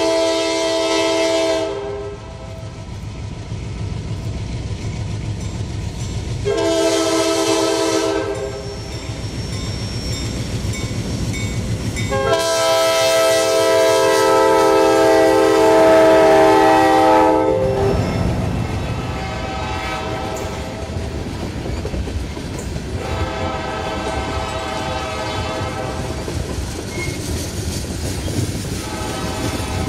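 Diesel freight locomotive sounding its multi-note air horn in several blasts: one cut off about two seconds in, another near seven seconds, a long one from about twelve to seventeen seconds, then fainter blasts later on. These sound over the steady rumble of the engine and the train rolling on the rails.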